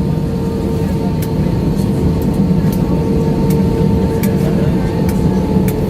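Airliner cabin noise while taxiing after landing: a steady rumble from the running jet engines and air system, with a steady whine, and faint scattered clicks.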